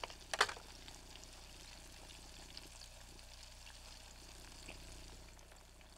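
Faint, steady sizzle of chicken frying in hot grease, with a brief sharp sound just after the start.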